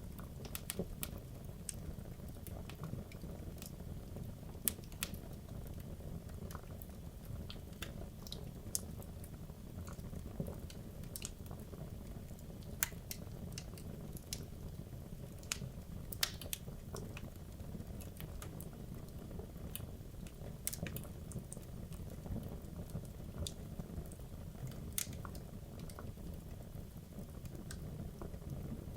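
Wood logs burning in a fireplace: a low steady rumble of the flames with irregular sharp crackles and pops from the burning wood.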